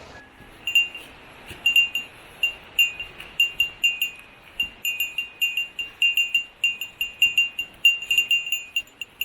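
A small metal bell tinkling over and over at an uneven pace, about two or three rings a second.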